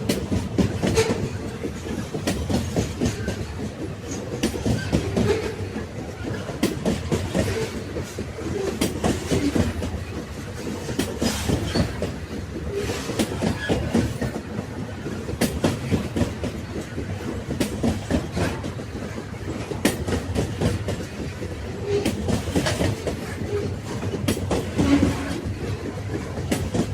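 Train cars rolling on the rails: a steady rumble with the clickety-clack of wheels over rail joints and irregular knocks.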